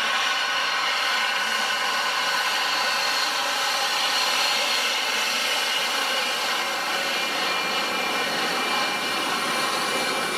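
Jet aircraft engines running at an airshow: a steady, loud rush with a high whine layered through it.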